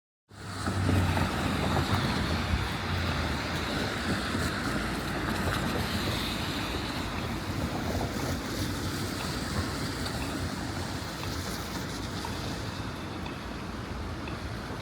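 Steady rain falling, an even hiss, with a low rumble in the first few seconds.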